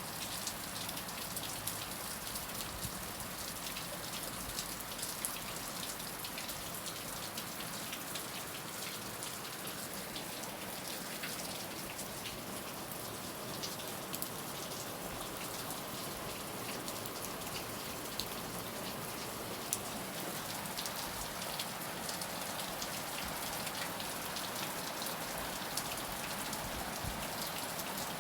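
Heavy rain falling steadily, a continuous hiss with many distinct drops pattering on a surface.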